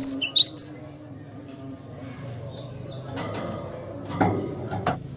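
Cinereous tit (glatik batu) singing: a quick run of four sharp, high chirps in the first second, then fainter notes over a low steady hum, with two short knocks about four seconds in.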